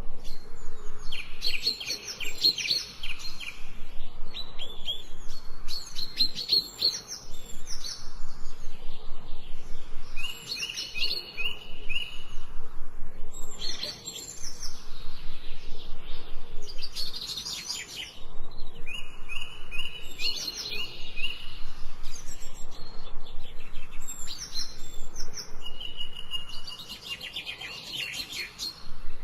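Songbird singing in repeated phrases of quick high chirps a few seconds apart, some phrases carrying a steady trill.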